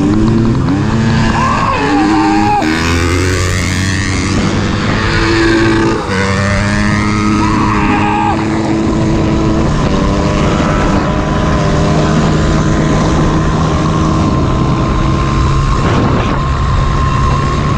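Dirt bike engines revving hard as the bikes launch and accelerate through the gears, pitch climbing and dropping repeatedly. After about eight seconds they settle into running steadily at speed, and a thin steady whine comes in about ten seconds in.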